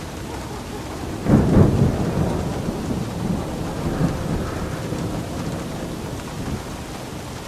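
Steady rainfall with a roll of thunder breaking in about a second in, loudest at the start, then rumbling low and fading away over several seconds.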